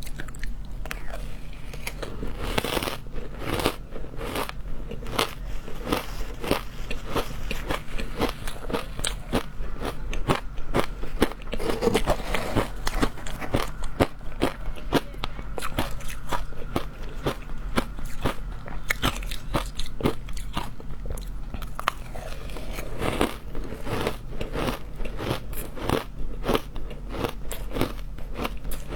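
Frozen matcha ice being bitten and chewed close to the microphone: dense, irregular crunching and crackling that keeps going, with short pauses between bites.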